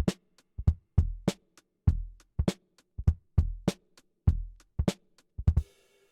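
Hip hop drum beat on an EZDrummer drum kit: deep, long-ringing kicks, snare strikes and hi-hat ticks in a steady groove, with a quick run of hits just before the end.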